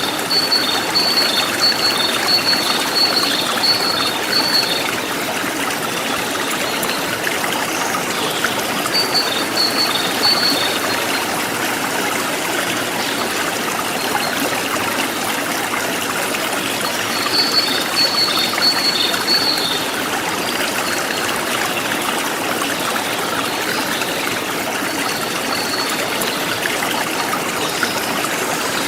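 Forest stream flowing steadily, with a bird repeating a rapid series of high chirps four times over it.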